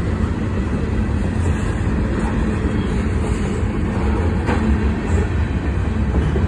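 CSX freight train's cars rolling past at speed: a steady low rumble of steel wheels on the rails.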